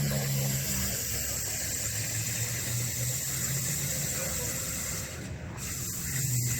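Steady low engine hum of an idling motor vehicle, fading and returning a couple of times, under a constant rushing hiss.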